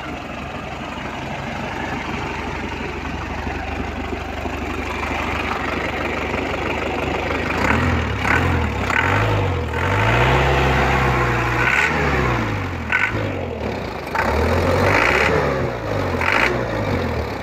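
Toyota 13B four-cylinder diesel engine in an FJ40 idling steadily, then revved up and let fall back several times, one rev held for a couple of seconds.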